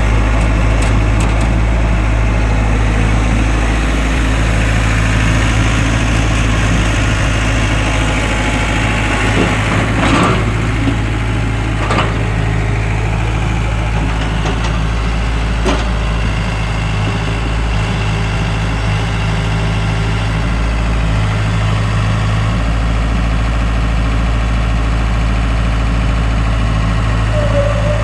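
Tractor engine running steadily with a deep, even hum, with a few brief sharp knocks near the middle.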